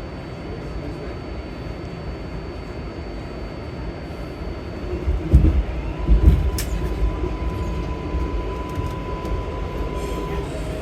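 Inside a moving New York City subway car, an R188 on the 7 line: the train runs with a steady rumble, gives two heavy low thumps about five and six seconds in, and then a steady whine sets in for the rest of the run.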